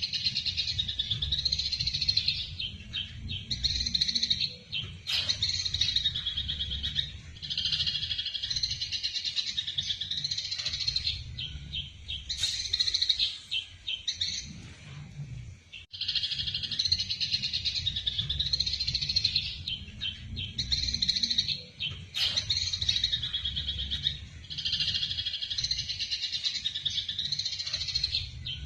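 Eurasian tree sparrows chattering in the rapid, excited chirps of fighting sparrows, in runs of a couple of seconds with short breaks, over a low steady hum.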